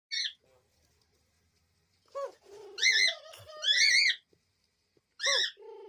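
Young dove's squeaky begging calls: about five short, high, arching squeaks with lower held notes between them, a chick pestering a parent to feed it.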